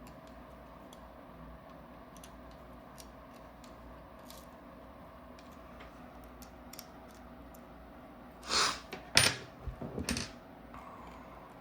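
Small paintball-marker parts being handled on a bench: faint scattered ticks, then a few louder knocks and scrapes about eight and a half seconds in.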